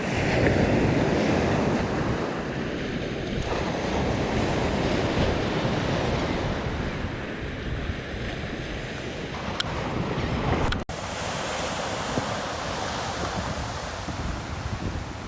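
Ocean waves breaking and washing up a beach in continuous surging swells, with wind rumbling on the microphone. About eleven seconds in there is a momentary dropout, and the surf turns thinner and hissier after it.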